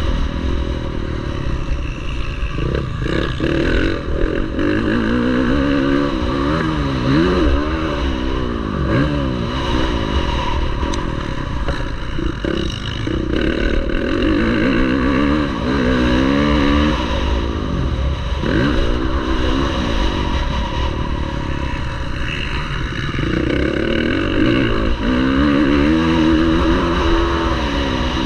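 Motocross bike engines revving hard, their pitch climbing and dropping again and again every second or two as the throttle is worked, with clattering mixed in.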